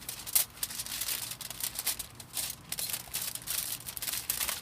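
Aluminium foil crinkling in irregular bursts as it is folded and pressed around a skewer by hand.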